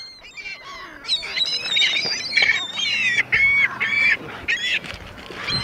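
A flock of gulls crying, many short high-pitched calls overlapping one another: the begging cries of gulls being fed.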